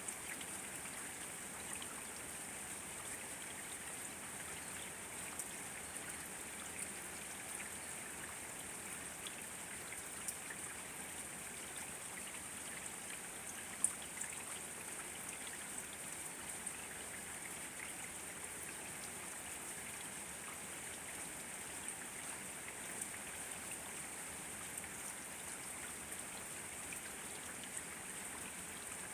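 Steady rain falling: an even hiss with scattered drops ticking, and one louder drop tick about halfway through.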